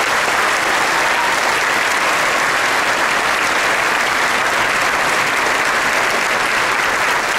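A large crowd applauding, steady and sustained.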